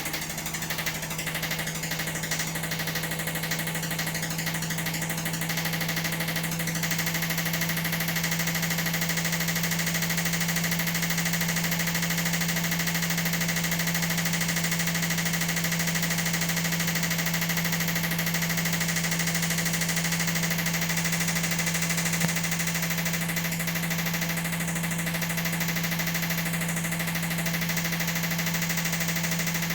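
Washing machine running a spin, a steady machine hum with vibration, growing a little louder about seven seconds in.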